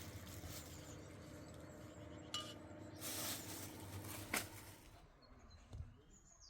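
A few faint clinks and knocks, one with a short ringing tone, over a faint steady hum; faint bird chirps near the end.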